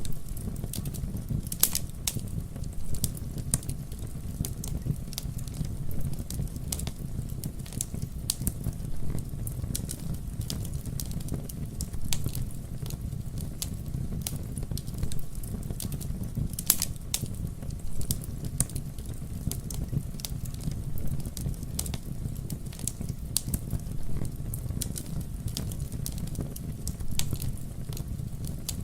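Wood fire burning with a steady low rumble and irregular crackles and pops, a few of them sharper and louder than the rest.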